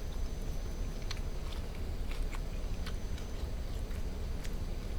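A person chewing a mouthful of wood-fire roast duck, with small, irregular wet mouth clicks.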